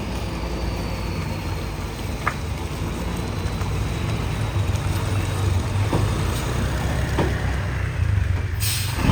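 Heavy truck engine running steadily at low revs, with a brief hiss near the end.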